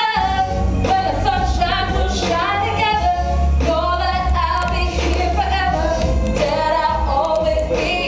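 Group of girls singing a pop song in unison over a bass-heavy musical accompaniment.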